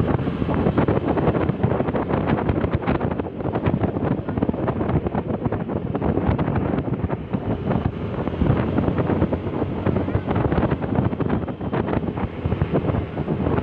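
Wind buffeting the microphone on a moving vehicle, a rough, gusting rush over a steady engine rumble.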